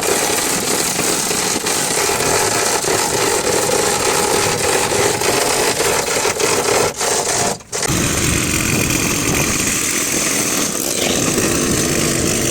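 Loud, steady mechanical noise like a power tool running. It drops out briefly a little past halfway and comes back with a changed character.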